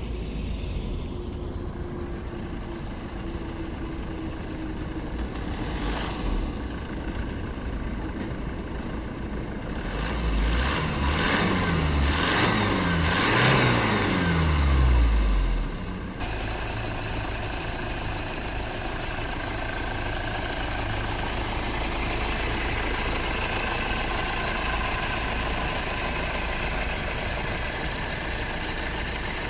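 Honda Accord 2.2 i-CTDi four-cylinder turbodiesel running steadily. From about ten seconds in it is revved several times, its pitch climbing and getting louder for about five seconds. It then cuts abruptly to a steady run.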